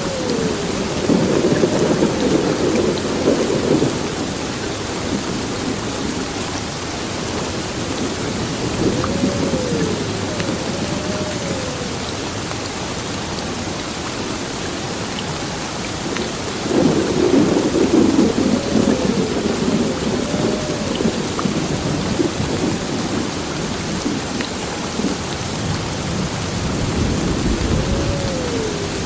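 Heavy rain pouring steadily on a building, with rolling thunder. The thunder swells three times: about a second in, just past halfway, and near the end.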